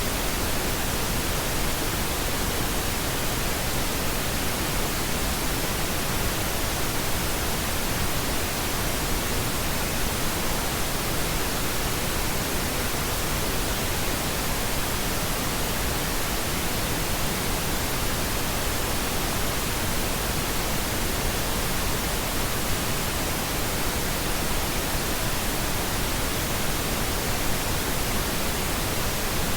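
Steady pink noise: an even, constant hiss across the whole range of pitch, unchanging throughout.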